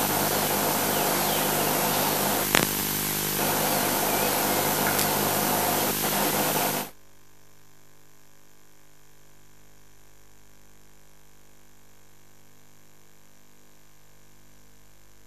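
Steady static hiss on the audio feed with a single click a few seconds in; about seven seconds in it cuts off abruptly, leaving only a faint steady electrical hum.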